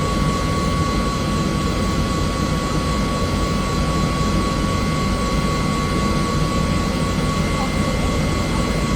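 Bell helicopter running in flight, heard from inside the cabin: a loud, steady rumble of rotor and turbine noise with a constant high whine over it.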